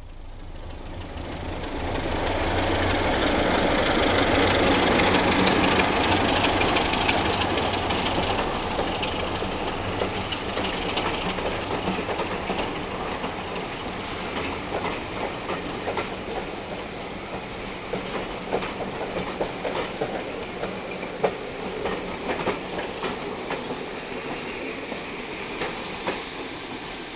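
A passenger train passing, loudest a few seconds in, then slowly fading as its coaches roll by, the wheels clicking over the rail joints.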